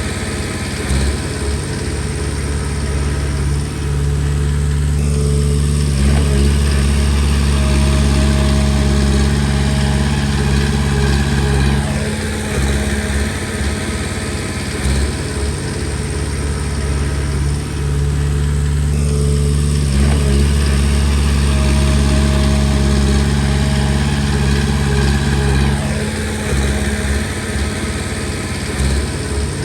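Komatsu D20P bulldozer's diesel engine running steadily. Its low drone grows stronger for several seconds twice and eases in between, as the machine works through its pushing passes.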